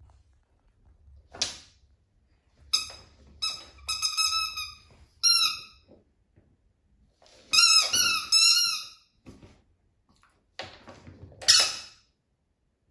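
Squeaky dog toy being squeezed again and again, giving high-pitched squeaks in about five short bursts with pauses between, some squeaks bending up and down in pitch.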